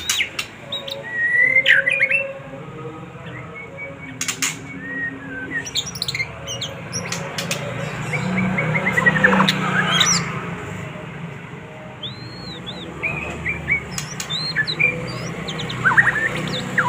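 White-rumped shama (murai batu) singing a fast, varied song of short whistles, chirps and sharp clicking notes. It is pouring out its repertoire of copied calls ("muntah isian").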